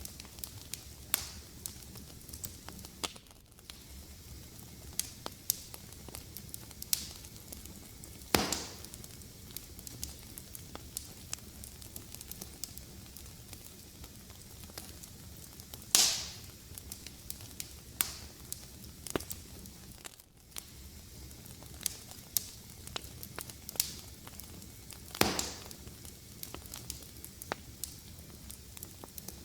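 Fire in a fireplace crackling steadily, with many small ticks over a low hiss and three louder pops spaced several seconds apart.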